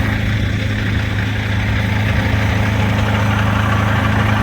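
Semi truck's diesel engine idling steadily, with wind noise on the microphone.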